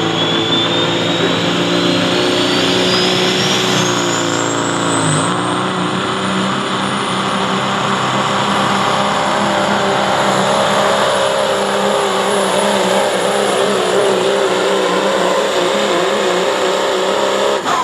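Pro Stock semi truck's diesel engine running at full power, pulling the weight sled down the track. A high whistle rises steadily in pitch over the first several seconds, then holds.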